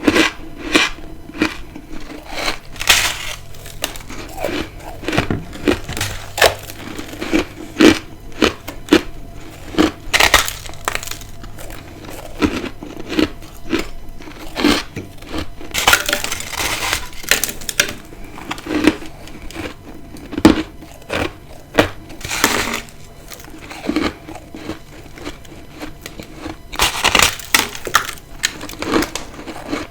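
Close-up crunching of ice being bitten and chewed: many sharp, irregular crunches with longer grinding runs about halfway through and again near the end.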